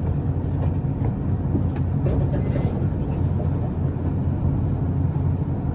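Interior running noise of an Isuzu Erga city bus under way: a steady low drone from the engine and drivetrain, with scattered faint rattles and clicks.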